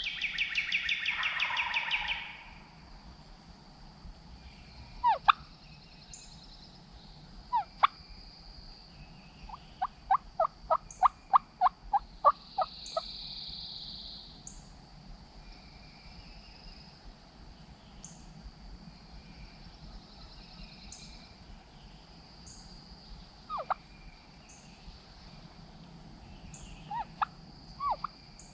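Wild turkey gobbler gobbling once at the start, a loud rapid rattle. A couple of single turkey call notes follow, then about ten seconds in a run of about ten turkey yelps. Faint high songbird notes repeat in the background.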